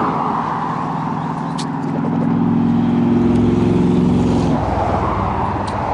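A motor vehicle going past on the road, its engine hum growing louder for a few seconds and then cutting away about four and a half seconds in, over steady road and wind noise.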